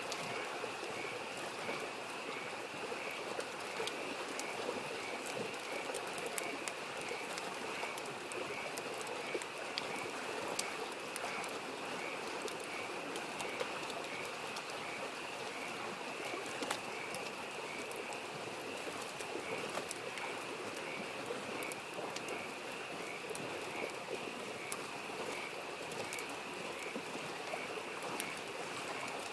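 Wood fire crackling with frequent sharp pops, over the steady rush of a babbling mountain stream. Frogs call in a continuous pulsing chorus behind it.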